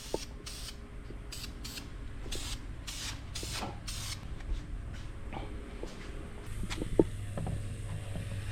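Aerosol spray paint can sprayed in a series of short hissing bursts, then a longer steady spray near the end.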